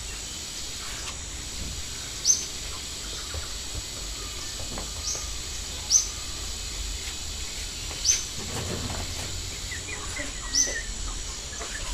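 Birds chirping: about five short, sharp, high-pitched chirps a second or two apart, over a faint steady high whine.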